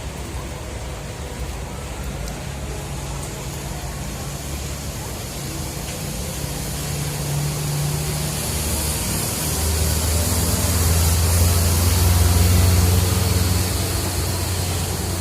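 Heavy rain falling, with a bus engine running at a low steady hum. The engine grows louder past the middle and eases off near the end.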